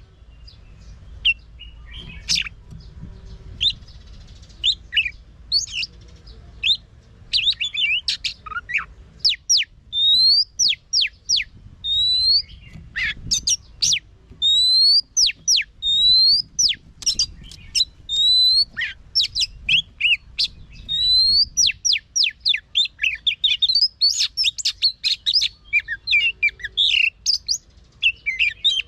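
Oriental magpie-robin singing a long, varied song of clear whistles, rising slurred notes and quick chattering phrases. The song grows faster and busier about a third of the way in.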